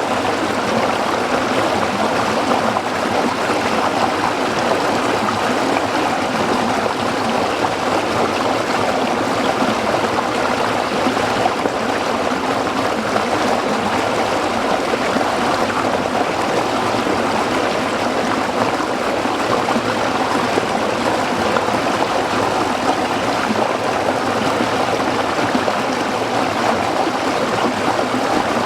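A small stream flowing and splashing over rocks, a steady rushing and babbling of water.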